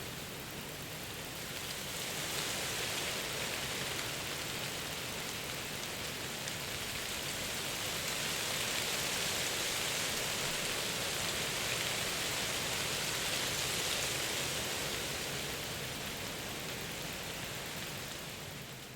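Steady, even rushing hiss of a nature ambience recording that fades out near the end.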